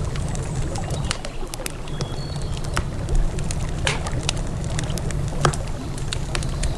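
Wood campfire crackling and popping irregularly over a steady low rumble, with a brief high bird chirp about two seconds in.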